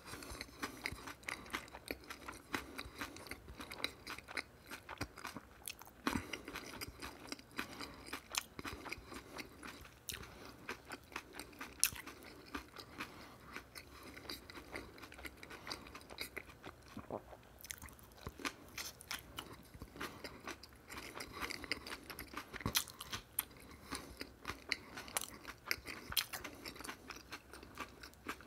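Close-miked chewing and biting of a filled flour-tortilla wrap: a steady, irregular run of wet mouth clicks and crunches.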